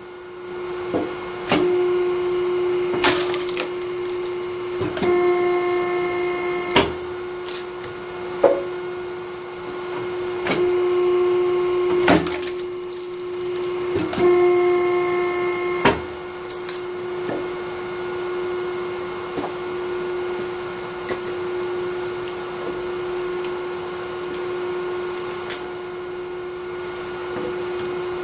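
Hydraulic log splitter running with a steady hum. Its pitch rises into a strained whine twice, for about two seconds each, as the ram drives the wedge through the wood. Sharp cracks of logs splitting come about half a dozen times.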